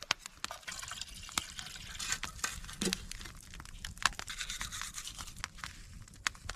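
Honey butter sizzling in a pan over a fire: a steady hiss with many irregular sharp crackles and pops.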